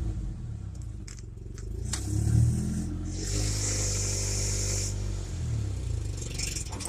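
1995 Ford Ranger engine idling smoothly after a jump-start from sitting four months, picking up briefly about two seconds in. A hiss joins it for a couple of seconds from about three seconds in.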